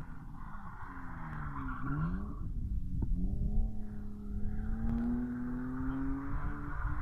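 Car engine revving during a drift on a loose dirt lot, heard from some distance. The revs drop about two seconds in, then climb steadily.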